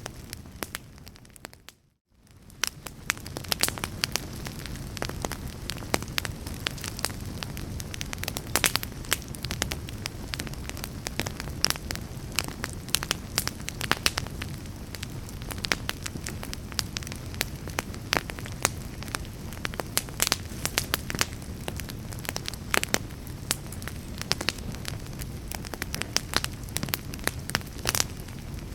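Fireplace fire crackling, with a steady low rumble and frequent sharp pops. About two seconds in the sound fades briefly to near silence, then comes back.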